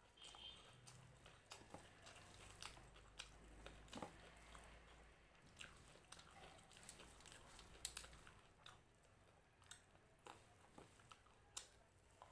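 A person chewing and biting crunchy food, with many quiet, irregular crisp crunches.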